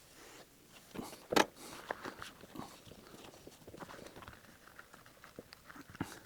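Leather and fabric being handled on a workbench: rustling with scattered light knocks and clicks, the loudest about a second and a half in and another near the end.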